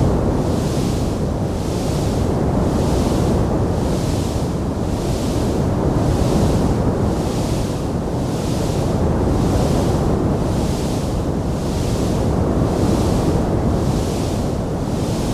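Wood fire burning in a fireplace: a steady, dense rumbling roar with a high hiss that swells and fades evenly about one and a half times a second, and no distinct sharp pops.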